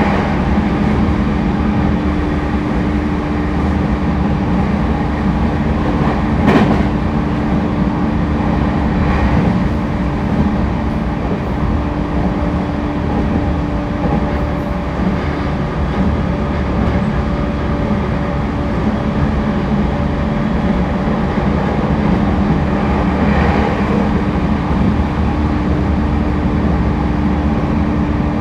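Interior running sound of an E231-1000 series commuter train (refurbished car) travelling between stations: a steady rumble of wheels on rail with a steady hum, and a single sharp knock about six and a half seconds in.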